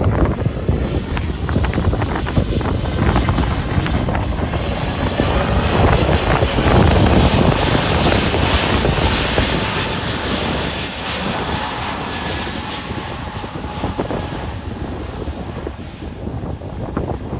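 Jet airliner's engines at takeoff power, swelling to a peak about halfway through and then slowly fading as it climbs away. Gusty wind buffets the microphone throughout.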